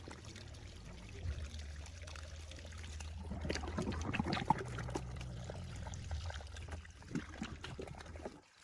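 Water trickling and pouring over a steady low motor hum that cuts off suddenly near the end, with scattered small clicks.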